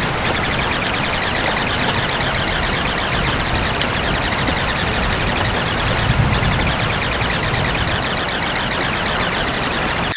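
Steady recorded rain: an even hiss of rainfall with a few faint drop ticks.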